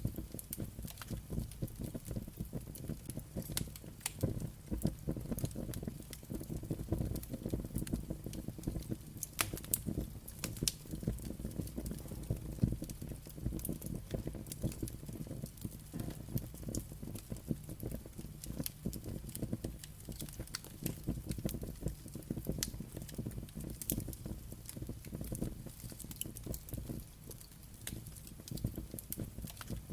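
Wood fire crackling steadily: many small sharp pops and snaps scattered over a low rumble of flames.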